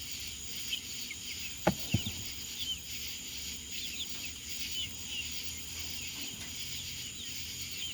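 Small birds chirping with short, high, repeated calls over a steady high insect-like drone. Two sharp knocks come close together about two seconds in.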